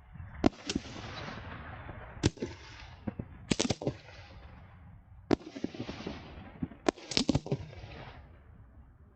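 Aerial fireworks bursting: sharp bangs in five clusters, one every second or two, some doubled or in quick runs, each trailing off in a brief crackling hiss.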